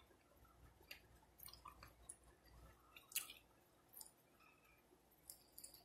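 Faint close-up chewing of a fried chicken wing, with scattered wet mouth clicks and smacks; the sharpest click comes about three seconds in.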